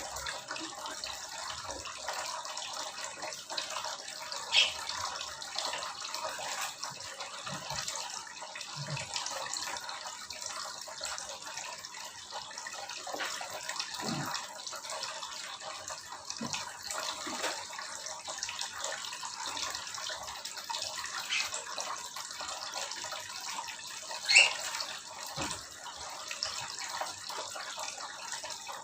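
Small aviary birds give two short, sharp calls, one about five seconds in and a louder one near the end, over a steady hiss like running water.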